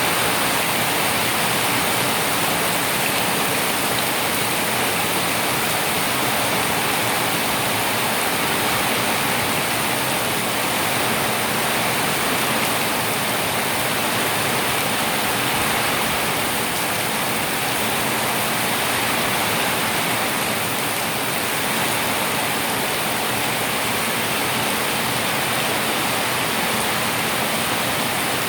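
Heavy rain falling steadily, an even hiss of water with no change in strength.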